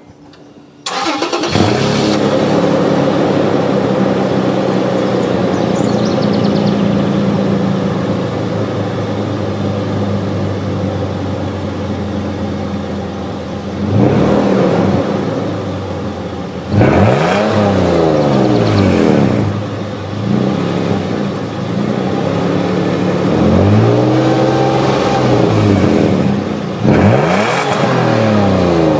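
Toyota FJ Cruiser's 4.0-litre V6 through its stock exhaust, starting about a second in, then idling steadily. From about halfway through it is revved several times, each rev rising and falling in pitch.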